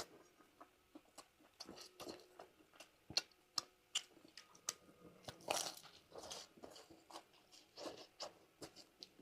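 A person chewing and biting food close to the microphone: irregular sharp clicks with a few short, louder bursts, the loudest a little past halfway.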